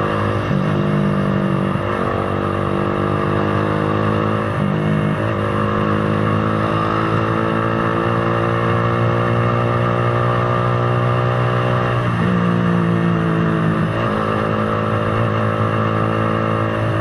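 Motorcycle engine running under way. Its pitch holds steady for a few seconds at a time and then shifts abruptly several times as the throttle or gear changes.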